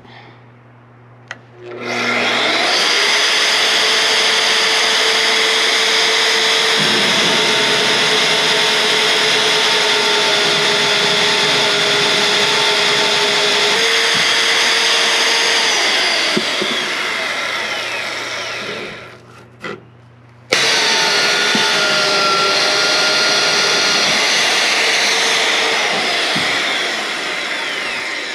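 Magnetic-base drill running loud with an annular cutter boring into steel plate, over the steady low hum of its electromagnet base. The motor starts about two seconds in, slows and stops after about seventeen seconds, then starts again a second or so later.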